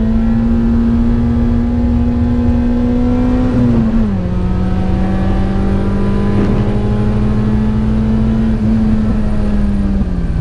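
Small hatchback's petrol engine heard from inside the cabin, pulling hard at speed on a race track: the engine note climbs slowly, drops sharply about four seconds in as the driver changes up a gear, then holds nearly steady, dipping briefly again at the very end, over steady road and tyre rumble.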